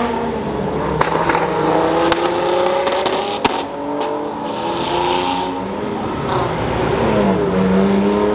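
Car engines accelerating along the road, their pitch climbing and dropping back as they shift, with a few sharp pops and a brief hiss about five seconds in.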